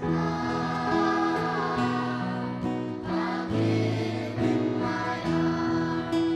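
A choir singing a Christmas carol in held notes, with acoustic guitar strumming.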